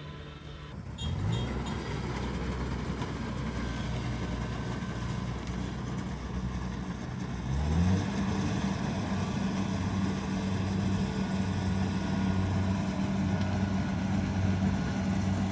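Kubota DC70 Pro combine harvester's diesel engine running. It revs up about a second in and again near the middle, then holds steady at the higher speed.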